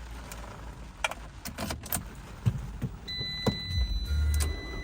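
Keys jangling and clicking in the ignition, then a steady high electronic tone comes on, and the 2012 Fiat 500 Pop's four-cylinder engine cranks and starts up easily near the end.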